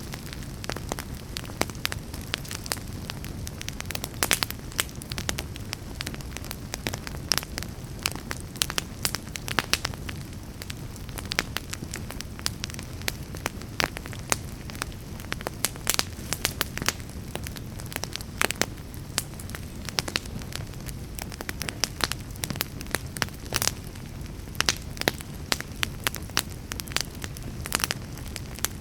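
Fire burning in a fireplace, crackling with frequent sharp, irregular pops over a steady low rumble.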